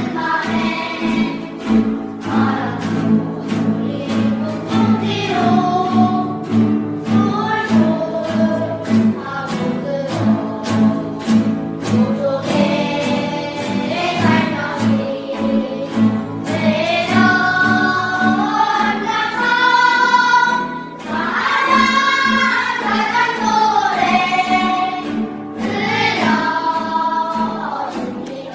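A choir singing a melodic song over a steady, evenly pulsed accompaniment, the voices rising to long held notes in the second half.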